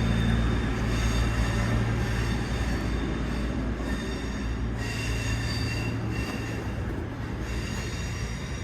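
A train at the station: a steady low hum, with thin high squealing tones from the wheels or brakes coming and going.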